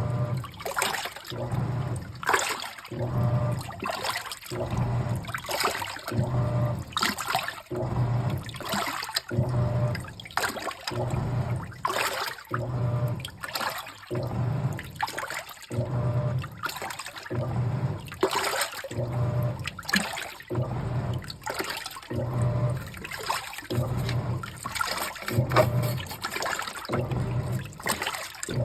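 Washing machine sloshing water in its tub during a cleaning wash with washing-machine cleaner, the motor humming and reversing in a steady rhythm about once a second.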